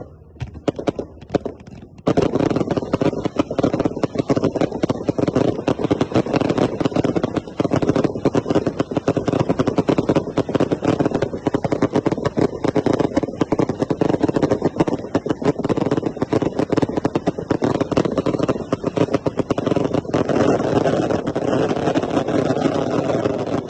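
Fireworks crackling: a few scattered pops, then about two seconds in a dense, continuous rapid crackle of many small bangs that keeps going without a break.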